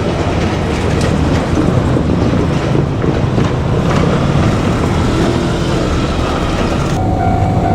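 JR Kyushu 817 series electric train, two sets coupled, passing close by over a level crossing with a steady rumble of wheels on the rails. About seven seconds in the rushing noise drops away sharply and a steady tone comes in.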